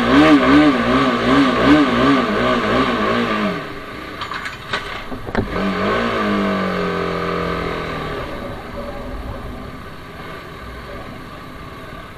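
TVS Apache RR310's single-cylinder engine being worked on the throttle, its pitch rising and falling about twice a second for the first few seconds. After a few sharp clicks the revs fall away and the engine settles to a quieter steady running sound.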